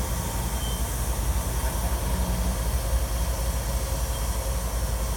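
Freight train rumbling steadily with a constant hiss.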